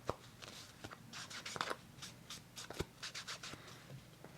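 Paper edges being inked with an ink pad: a string of light taps and short scratchy rubs of the pad on paper.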